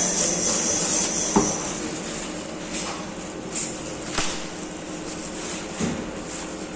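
Workshop machinery running with a steady hum and hiss, with a handful of sharp knocks and clicks scattered through it, about one a second at most.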